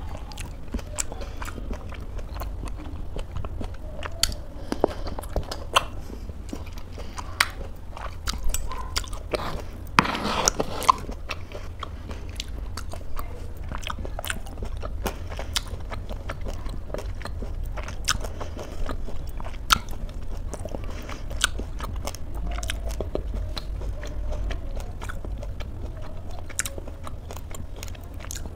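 A person chewing close to the microphone, eating oatmeal with almonds and cookie pieces, with many short crunches and wet mouth clicks throughout.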